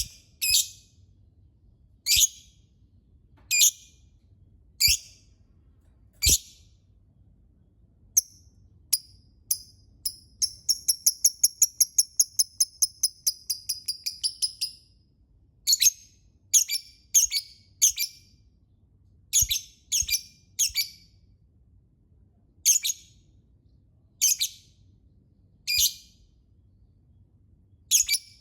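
Lovebird calling with sharp, high chirps spaced a second or two apart. About ten seconds in, it breaks into a fast, rattling run of chirps lasting about four and a half seconds, then returns to single chirps.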